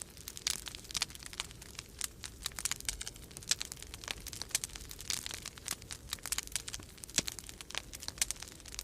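Wood fire crackling in a fireplace, with irregular sharp pops and snaps of varying loudness, several a second, over a low steady rumble of storm wind.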